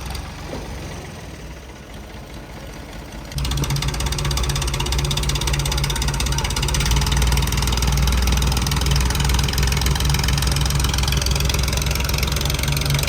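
Tractor diesel engine running steadily. It is faint for the first three seconds or so, then comes in suddenly loud and stays steady.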